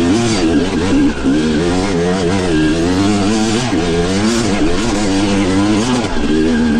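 Yamaha YZ250 two-stroke dirt bike engine revving up and down as the throttle is worked, its pitch rising and falling constantly rather than holding steady.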